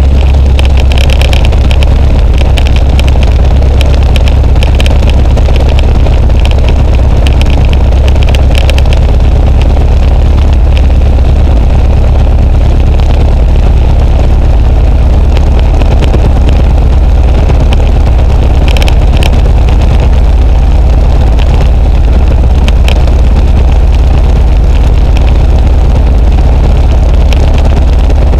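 Luscombe light aircraft's piston engine running steadily, a constant low drone with no change in pitch.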